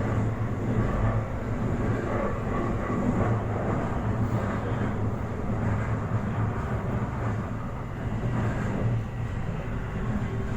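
Toei Asakusa Line 5500 series electric train running at speed, heard from inside the car: a steady rumble of wheels on rail with a low hum.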